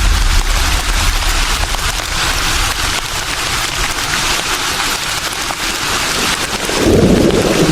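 Breeze through foliage: a steady rustling hiss of leaves, with a deeper, louder gust about seven seconds in.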